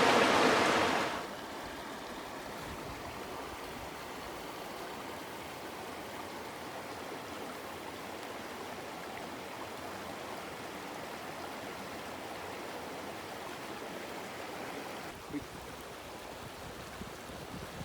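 A shallow river running past with a steady, even murmur of water. It is louder for about the first second, then holds level, and a faint knock comes near the end.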